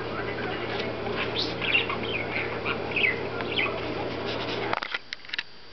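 A pet parakeet chattering rapidly, a quick run of chirps, squeaks and mimicked talk as she rambles through the words she knows. Near the end a steady low hum drops out and a few sharp clicks are heard.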